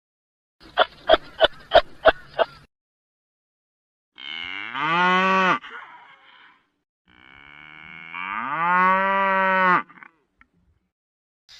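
A quick run of about six short sharp clicks, then two drawn-out low animal calls, each rising in pitch at the start and then holding steady. The second call is longer than the first.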